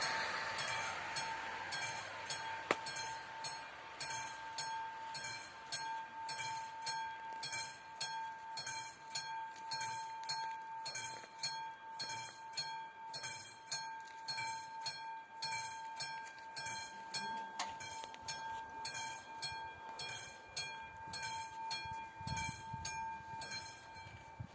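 Level crossing's classic mechanical warning bell striking evenly, about two strikes a second, each strike ringing on. The noise of a passing train fades out at the start, and the bell falls silent at the end.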